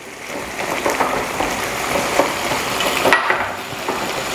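Pork, liver, bell pepper and carrot frying in a sauté pan while a wooden spoon stirs, the sizzle building up in the first second, with a few scrapes and knocks of the spoon against the pan.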